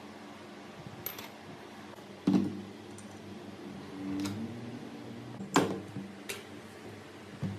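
Metal parts clinking and knocking as they are handled, with about seven separate strikes, the loudest two a little over two seconds in and about five and a half seconds in. A faint steady hum runs underneath.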